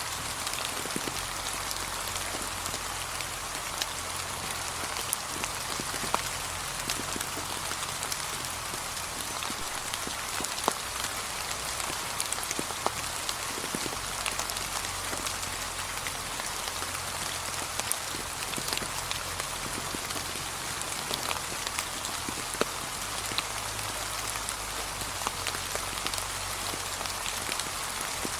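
Steady light rain with many distinct drops ticking on leaves.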